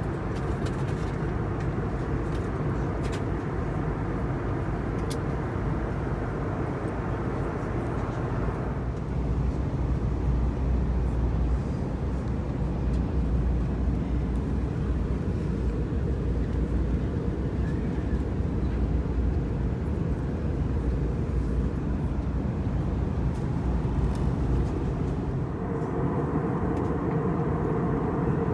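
Airbus A321neoLR airliner cabin noise in flight: a steady roar of engines and airflow heard from inside the cabin. About nine seconds in the sound turns deeper and heavier, and near the end it goes back to its earlier, brighter balance.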